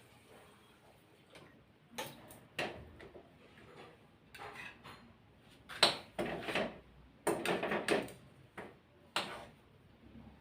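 Metal spoon scraping and clinking against a pan and dishes in a run of irregular short clatters, the loudest about halfway through and again a little later: sooji halwa being served out.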